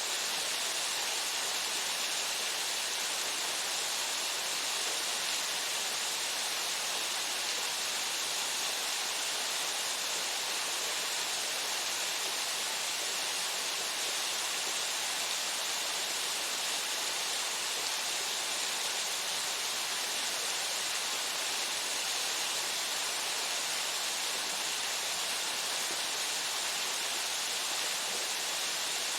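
Waterfall pouring steadily into its pool: a constant, even rush of falling water with no change over the whole stretch.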